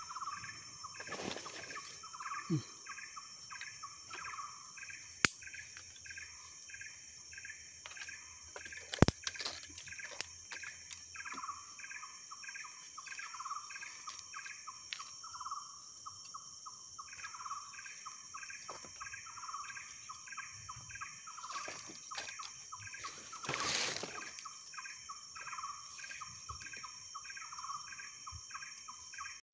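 A bird calling over and over in quick, short repeated notes, two to three a second, with a brief pause about halfway, over a steady high-pitched insect drone. A few sharp clicks stand out along the way.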